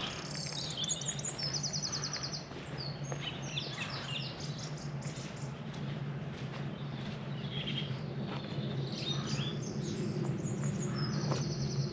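Small birds singing and chirping, with a rapid high trill about a second in and another near the end, over a steady low hum.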